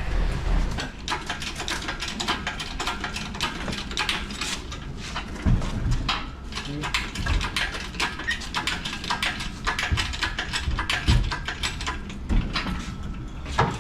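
Rapid clicking and metallic clatter of hand tools and parts during shop work on a van engine, with a few heavier knocks and indistinct voices.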